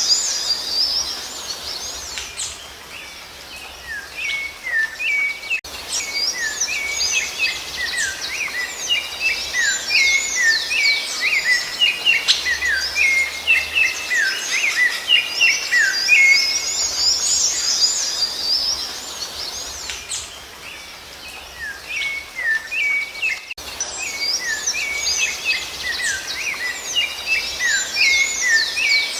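Rufous-bellied thrush (sabiá-laranjeira) singing: a continuous run of short whistled notes and slurs, thinning out for a few seconds twice.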